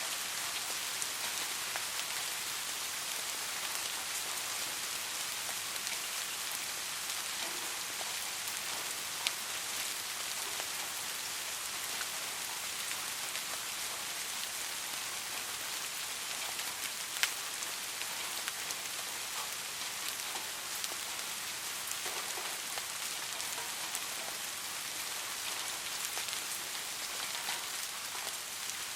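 Steady soft rain, an even hiss of falling drops, with scattered individual drop ticks, two of them sharper, about nine and seventeen seconds in.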